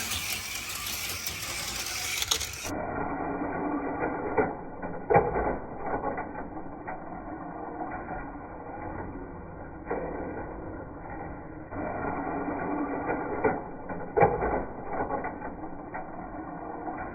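HO-scale slot cars running on a plastic track, their small electric motors whirring, with a few sharp clacks, the loudest about five seconds in and about fourteen seconds in.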